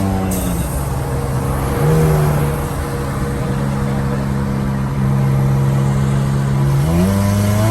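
Car engine running at fairly steady revs while driving, with the revs climbing in a smooth rise near the end.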